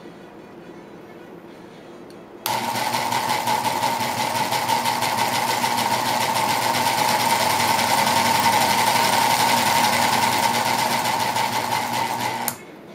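3D-printed V8 solenoid engine running, a fast, even mechanical rattle with a steady hum over it. It starts abruptly about two and a half seconds in and stops suddenly near the end.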